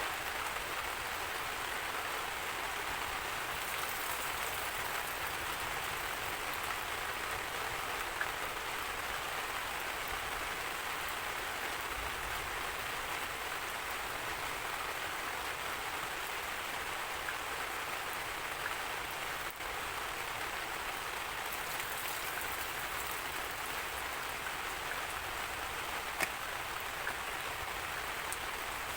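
Steady rain falling: an even hiss with a few faint separate drop ticks. No thunder is heard.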